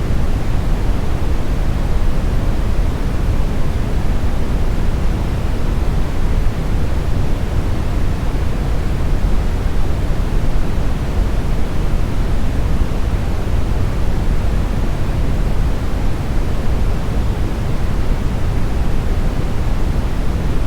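Steady, smoothed brown noise: an even, deep rumbling hiss weighted to the low end, unchanging throughout.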